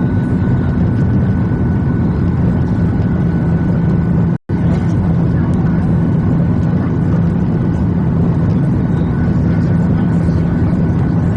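Steady cabin noise inside a Boeing 737-800 in flight: the drone of its jet engines and airflow, with a thin steady whine. The sound drops out for a split second about four and a half seconds in.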